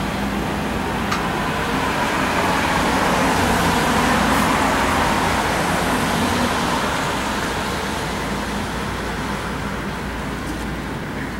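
Road vehicle noise: a steady rush with a faint engine hum, swelling about four seconds in and then slowly easing off.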